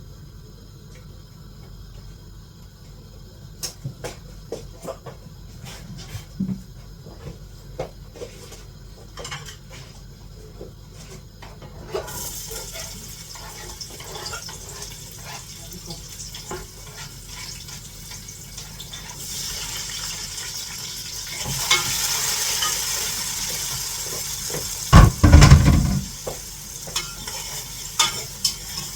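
Scattered light clicks and taps of kitchen utensils, then, from about twelve seconds in, food sizzling as it fries in a hot pan, growing louder over the last several seconds. A couple of heavy thumps near the end are the loudest sounds.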